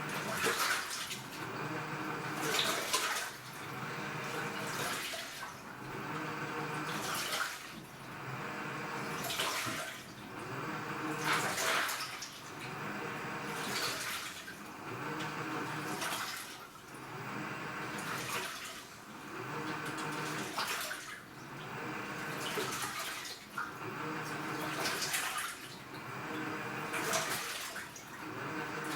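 AQUA washing machine with a direct-drive inverter motor in its wash stage, churning the load back and forth in water. A surge of swishing water comes about every two seconds, with a low motor hum between the surges.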